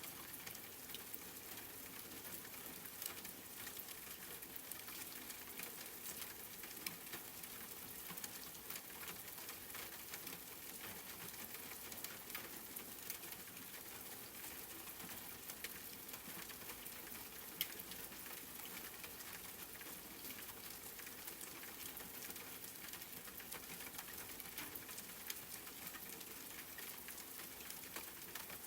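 Steady rain: an even hiss of falling drops with many fine drop ticks and a few sharper, louder ones scattered through.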